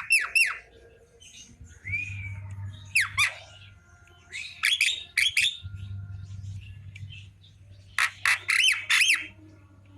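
Javan myna calling: several bursts of quick, sharply falling chirps and squawks, with a short curved whistle about two seconds in.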